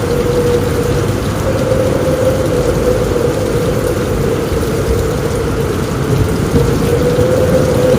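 Steady heavy rain on a roof with a continuous low rumble beneath it, and a steady faint tone held underneath the whole time.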